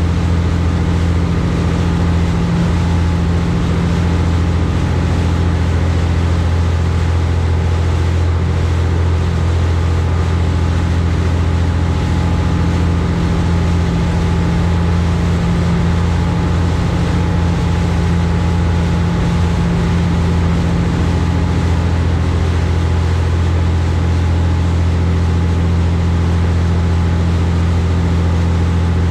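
High-speed passenger boat's engines running steadily under way, heard on board: a constant low drone with a hum of steady tones above it.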